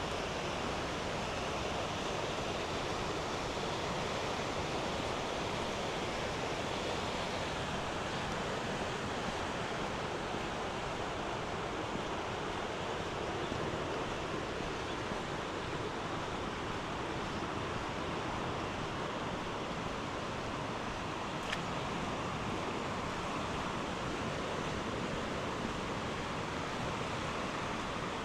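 Steady rushing of fast-flowing floodwater from the swollen river, an even, unbroken wash of water noise.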